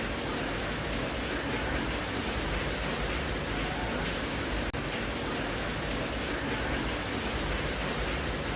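Steady rain, an even hiss with no pattern, dropping out for an instant a little past the middle.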